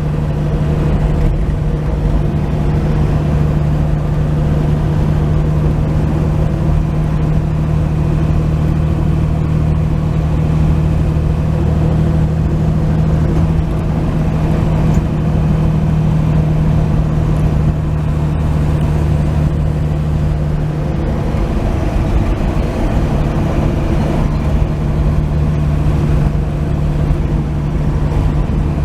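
1949 Chevrolet 3100 pickup cruising, heard from inside the cab: a steady engine drone with road noise. The engine note eases and shifts briefly about two-thirds of the way through.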